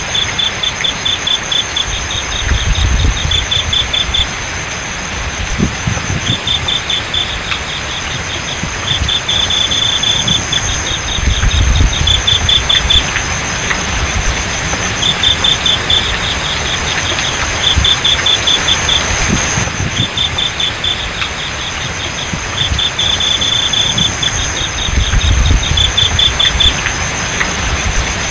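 Crickets chirping in repeated trains of rapid pulses, with a steady high-pitched insect trill underneath, over the continuous rush of flowing water. Low rumbles swell and fade every few seconds.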